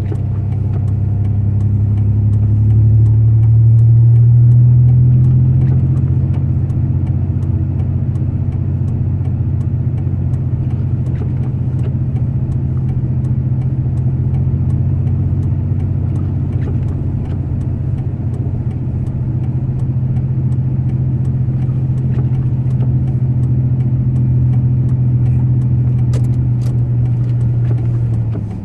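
Pickup truck engine and road noise heard from inside the cab, a steady low drone that swells as the engine climbs slightly a few seconds in, then holds even before easing off at the very end.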